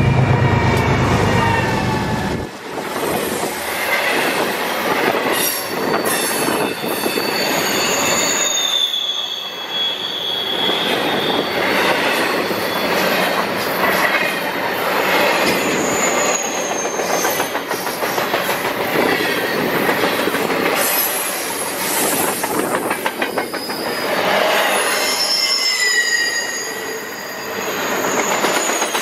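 BNSF freight train passing: the lead GE diesel locomotive's deep engine rumble for the first couple of seconds, then double-stack container well cars rolling by. Their wheels squeal in high, sliding tones and click over the rail joints.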